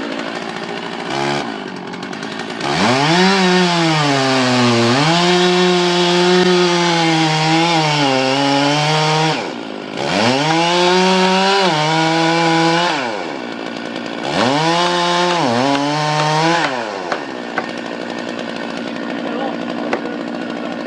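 Chainsaw engine revved up to full throttle three times, in bursts of a few seconds. Its pitch sags and recovers within each burst, and it drops back to a lower running sound in between.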